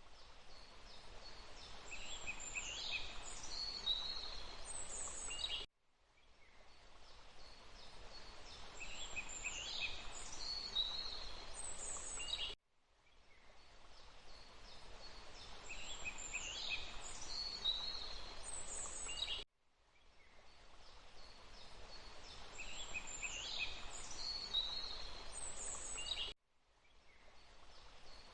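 Forest ambience: a steady hiss with a bird calling over it. It is a short clip looped about every seven seconds, and each repeat cuts out suddenly and fades back in.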